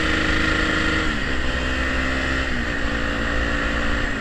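Honda Tornado's single-cylinder engine running through a Protork aftermarket exhaust while the bike is ridden, its note stepping down in pitch three times.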